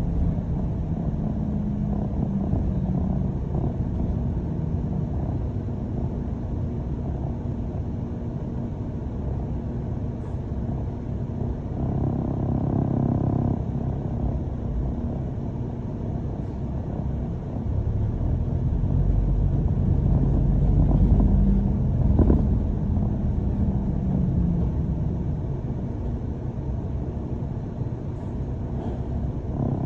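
London bus running along the road, heard from inside: a steady low rumble of motor and road noise with a faint hum, swelling louder around twenty seconds in as the bus pulls away.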